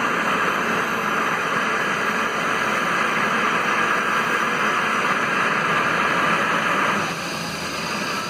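Helicopter running on the pad, a loud steady turbine-and-rotor rush that drops somewhat in level about seven seconds in.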